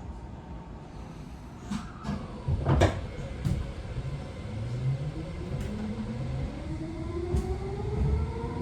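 Tokyo Metro 18000 series train cabin: the doors close with a couple of thuds about two to three seconds in, then the train pulls away, its inverter-driven traction motors giving a whine of several tones that climb steadily in pitch as it gathers speed, over a low running rumble.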